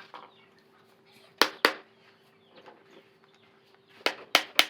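Sharp knocks on a car fan motor being worked apart: two close together about a second and a half in, then three quick ones near the end.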